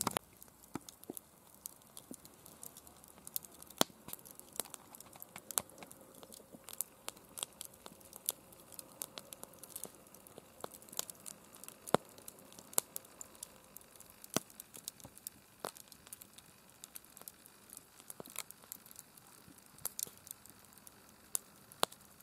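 Campfire crackling: faint, irregular snaps and pops of burning wood, with a few sharper cracks scattered through.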